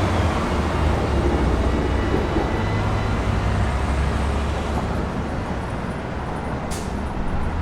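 City street traffic: a steady low engine rumble from vehicles, with a faint thin whine above it and one brief sharp click near the end.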